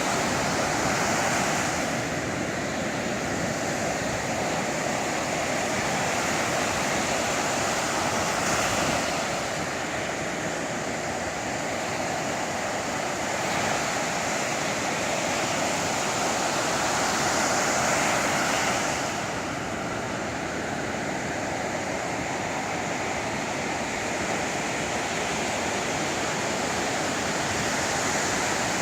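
Sea surf breaking on the shore: a steady rush of waves that swells louder every few seconds as each wave comes in.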